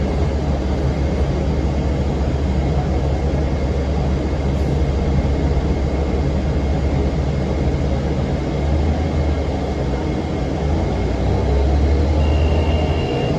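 Cabin sound of a 2006 NABI 40-foot low-floor transit bus: its Cummins ISM diesel engine running with the engine cooling fan on, a steady deep drone with a faint high tone over it. The drone grows louder near the end.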